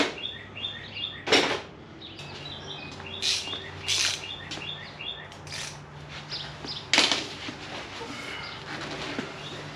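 Songbirds chirping steadily, broken by several sharp knocks and clanks of hand tools, the loudest about a second and a half in and again about seven seconds in.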